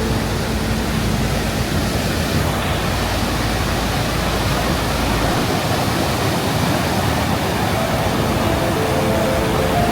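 Waterfall: a loud, steady rush of falling water. Faint background music comes in near the end.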